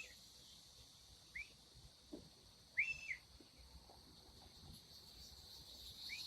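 A handful of short, arched bird chirps a second or so apart, two of them close together about three seconds in, over a steady high hum of insects.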